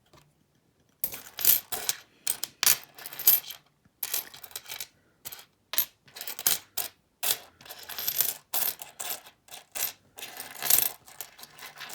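Loose pennies clinking and sliding against each other as a handful of coins is sorted through by hand: a quick, irregular run of small metallic clicks and jingles, starting about a second in.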